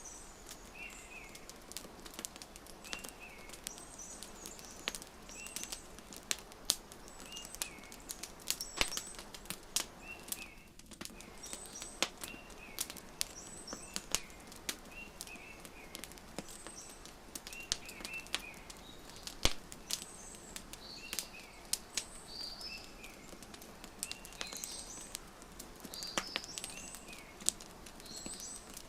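Wood fire crackling with sharp, irregular pops, mixed with birds chirping: a short call repeating about once a second and higher twittering above it.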